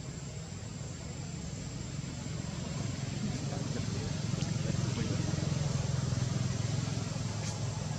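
Low rumble of a motor over a steady hiss, growing louder through the middle and easing off near the end.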